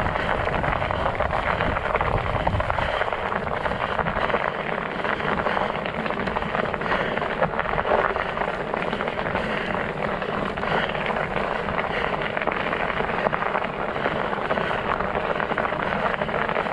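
Fat bike's studded tires rolling over snow and ice: a steady crunching hiss full of fine crackles, with some low rumble in the first few seconds.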